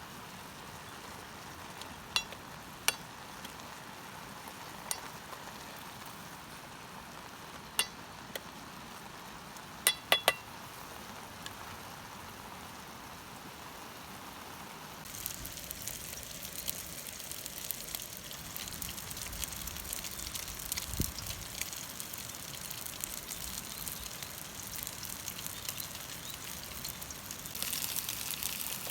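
A few light metallic clinks of camp cookware. About halfway through, food starts sizzling as it fries in a hot pan, a crackling hiss that grows louder near the end.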